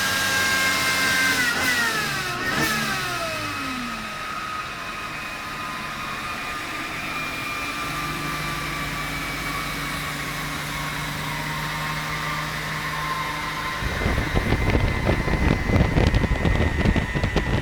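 The 850cc air-cooled flat-twin engine of a Citroën 2CV in a Burton car, its revs falling back from a blip in the first few seconds, then idling steadily. For the last few seconds a loud, uneven rumble takes over.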